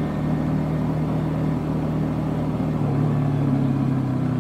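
Yamaha Jupiter MX 150 underbone motorcycle's single-cylinder four-stroke engine running steadily under way through its stock exhaust, its note dropping slightly about three seconds in.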